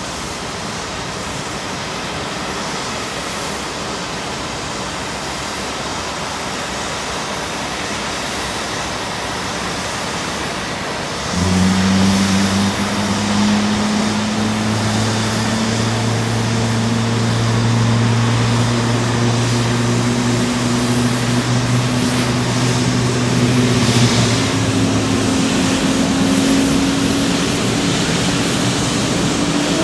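Airbus A350-900 jet engine (Rolls-Royce Trent XWB) starting: a steady rushing noise, then about eleven seconds in a low hum sets in suddenly and climbs slowly in pitch as the engine spools up.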